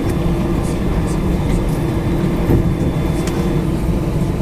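Steady low rumble and hum inside the cabin of an Airbus A319 taxiing after landing, its CFM56 engines at idle, with a few faint clicks and rattles.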